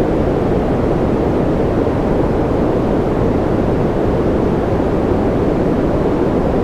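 Steady white-noise track: an even, unbroken noise, deep and rumbling rather than hissy, with no changes.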